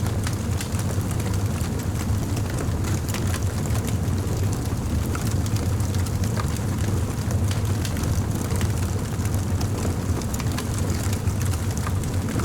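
Campfire burning: a steady low rumble with frequent small crackles and pops scattered through it.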